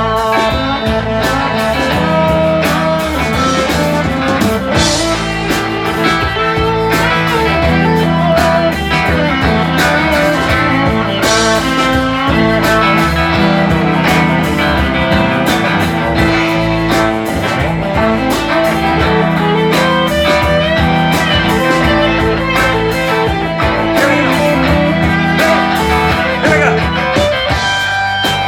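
Live band playing an instrumental passage of a blues-rock song, with guitar in the lead.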